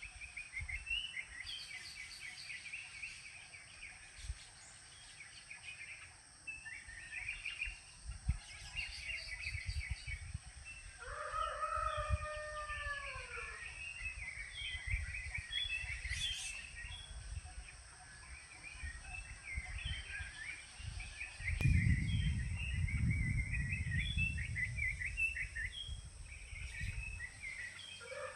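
A rooster crows once, a long call that rises and falls, a little before the middle, over steady chirping of small birds. There is a low rumble, loudest in the last third.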